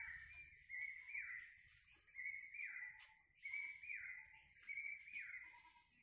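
Faint bird calls repeated over and over: a short two-part call, a level note followed by a falling one, about once a second.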